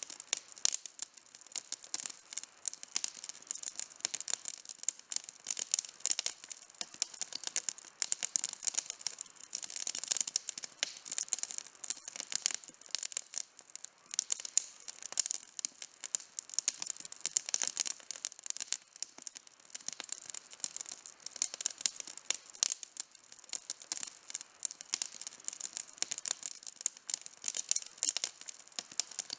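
Outdoor campfire burning, with dense, irregular crackling and popping of the burning wood throughout.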